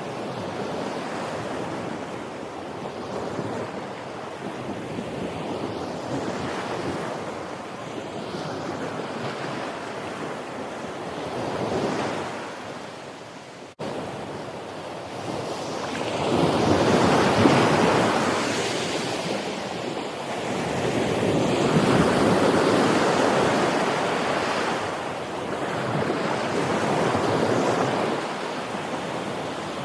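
Ocean waves breaking and washing ashore, swelling and ebbing every few seconds. The sound drops out sharply for an instant about halfway through, after which the surges come louder.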